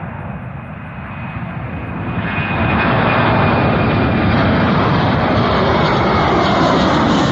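Jet airliner's engines at takeoff power, a loud rushing roar that swells from about two seconds in and then holds steady: a very large engine.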